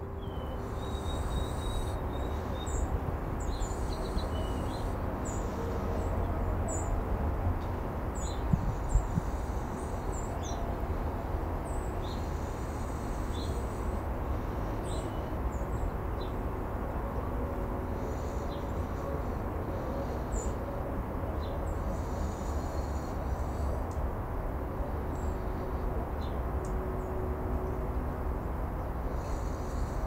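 Small birds chirping, with short, scattered high calls throughout, over a steady low outdoor rumble.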